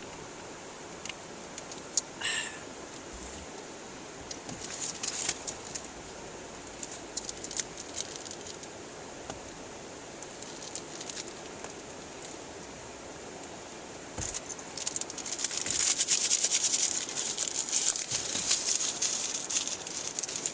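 Steady rain hiss with scattered clicks and crackling rustles, which grow dense and louder over the last five seconds.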